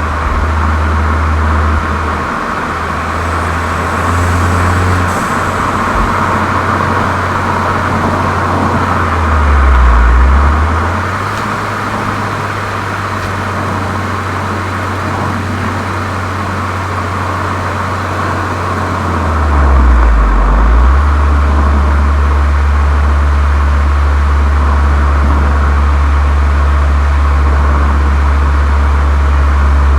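Volkswagen Golf 7 GTI's turbocharged four-cylinder with an aftermarket Cox exhaust and chamber, running with a deep, steady exhaust drone. Twice, about ten and twenty seconds in, the engine note dips briefly and comes back up.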